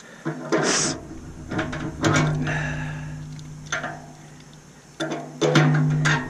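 Stainless steel steamer parts being handled: a scrape, then sharp metal knocks about two seconds in and again about five seconds in, each leaving a low, steady ring that fades.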